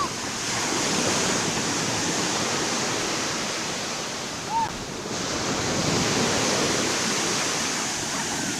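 Ocean surf washing on a beach, a steady rush that eases just before the halfway point and swells back up. A brief high call cuts through once a little past the middle.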